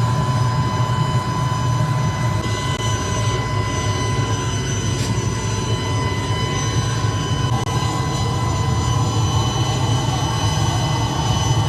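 Factory machinery running steadily: a loud low drone with several steady high-pitched whines on top.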